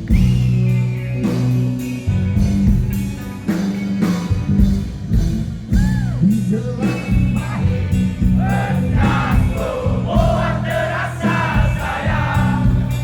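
Live rock band performing, with drums and singing.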